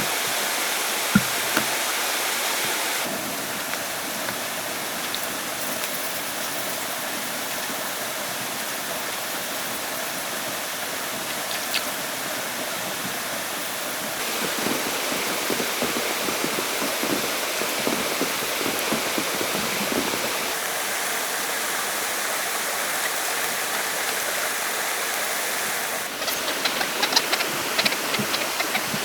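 Steady rushing of flowing water, like a forest stream, shifting in level abruptly a few times. A scatter of sharp knocks and clicks comes near the end.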